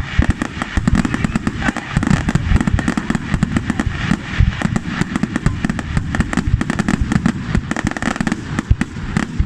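Fireworks and firecrackers going off in a dense, unbroken run of sharp bangs and cracks, many a second.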